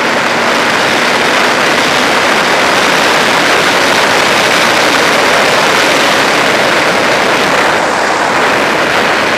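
Loud, steady wind rush over the microphone of a Yamaha FZ6 sportbike riding flat out on the highway at over 100 mph.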